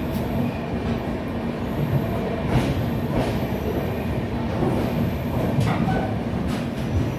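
Steady rumble of a moving express train heard inside a sleeper-class coach, the wheels running on the rails, with a few irregular clacks.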